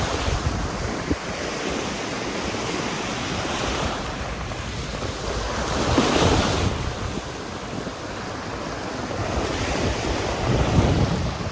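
Surf breaking and washing up a sandy beach, the wash swelling loudest about halfway through and again near the end, with wind rumbling on the microphone.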